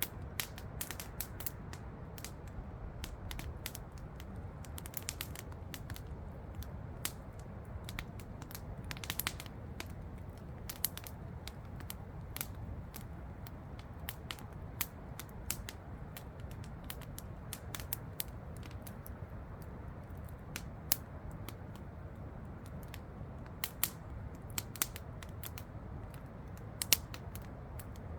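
Campfire crackling: irregular sharp pops and snaps of burning wood, a few louder ones near the end, over a steady low rush of falling water from a waterfall.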